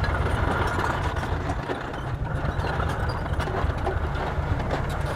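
Bulldozer's diesel engine running steadily under a heavy low rumble, with scattered metallic clanks and knocks on top.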